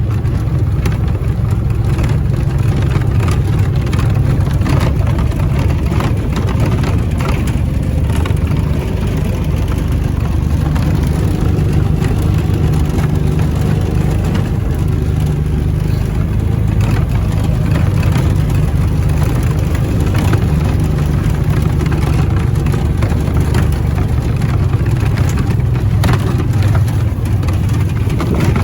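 Vehicle engine running steadily while driving, a constant low drone with light knocks and rattles over it.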